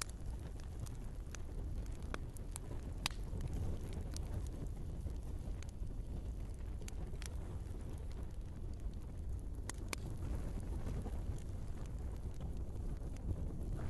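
Log fire in a fireplace burning with a steady low rush, broken by scattered sharp crackles and pops of the wood, a few close together around two to three seconds in and one loud pop near ten seconds.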